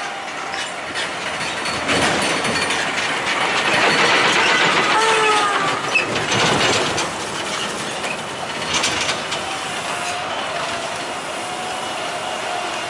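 Heavy truck working hard through a difficult stretch of road, its engine running under strain with rattling and clanking from the body and load. A squealing tone slides down in pitch near the middle, where the sound is loudest.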